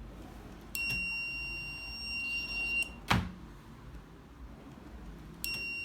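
Homemade drawer-and-cabinet alarm's buzzer sounding one steady, high-pitched beep of about two seconds, followed by a single sharp click; near the end the buzzer starts sounding again.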